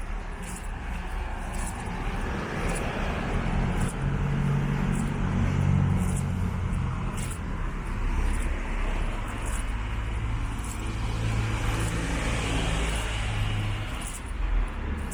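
Road traffic: motor vehicles passing close by, with engine hum and tyre noise that swell about a third of the way in and again near the end.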